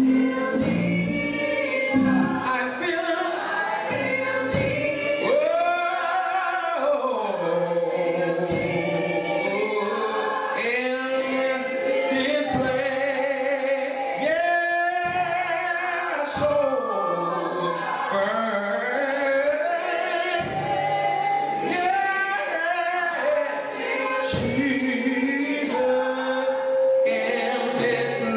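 Church gospel choir singing, men's and women's voices together, over band accompaniment with a steady beat of drum or cymbal hits.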